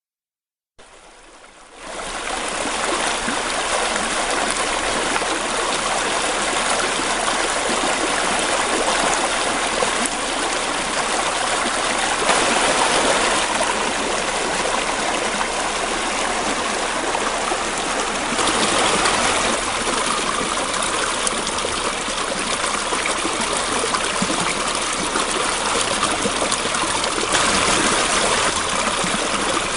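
Steady rush of flowing water, like a stream, fading in from silence about a second in.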